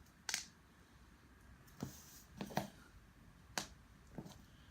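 Sharp clicks and taps of small laser-cut plywood model parts and wooden toothpick pins being handled and pushed into place, about six scattered clicks.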